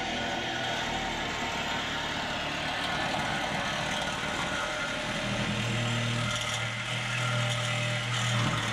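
A motor vehicle engine running steadily with a broad hiss over it. About halfway through a steady low hum comes in and holds, then cuts off just after the end.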